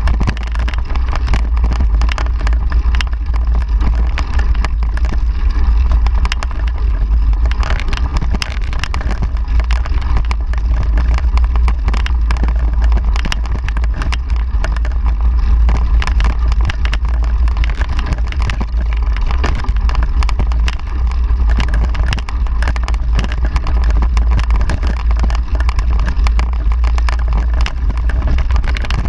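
Ride noise from a moving mountain bike picked up by a camera riding on it: a steady low rumble of wind and vibration on the microphone, with frequent clicks and rattles throughout.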